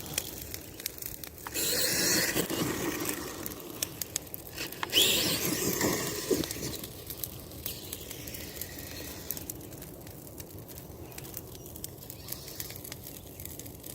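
A Tamiya TXT-2 RC monster truck with RC4WD electric motors driving in short bursts. The motors whine, with a rising whine about five seconds in, mixed with scraping and clicking from the tyres and drivetrain over the ground. It quietens in the second half.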